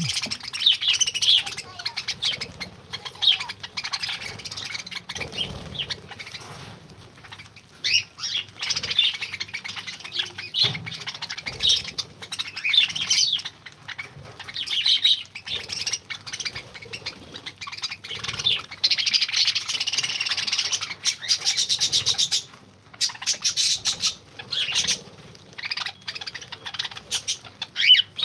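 A colony of cockatiels and lovebirds chirping and calling, many birds at once, in a dense, unbroken chatter.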